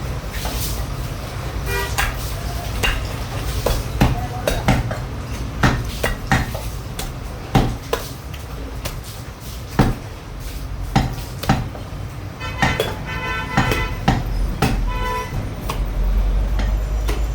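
Butcher's cleaver chopping cow meat on a block, sharp irregular chops about every half second to a second, over a steady low traffic rumble. A horn honks intermittently for a few seconds about two-thirds in.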